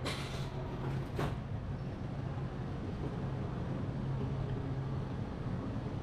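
Steady low mechanical hum with light background ambience, and two soft clicks in the first second or so.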